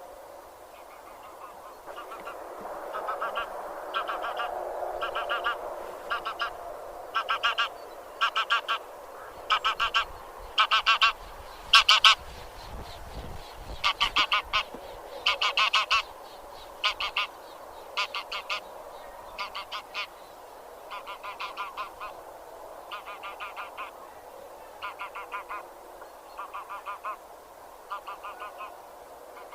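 A flock of grey geese (genus Anser) honking: many short honks, often in quick doubles and runs, loudest about halfway through, over a steady low chatter from the rest of the flock.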